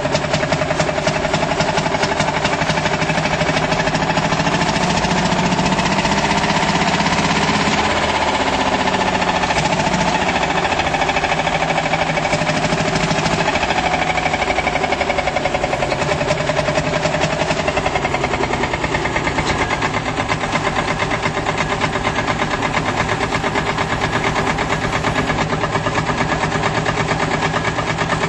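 Single-cylinder diesel engine of a Field Marshall tractor running with a rapid, even thump. Its speed shifts a little about eight to ten seconds in.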